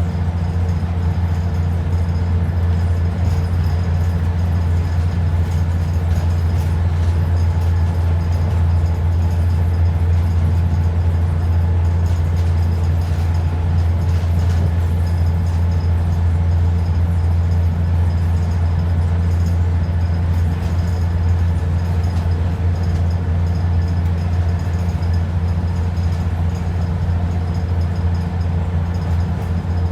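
ADL Enviro 400 double-decker bus's diesel engine running with a steady low hum, heard from on board the bus.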